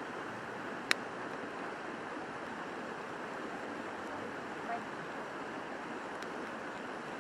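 River rushing steadily past the bank, an even rush of water. A single sharp click about a second in.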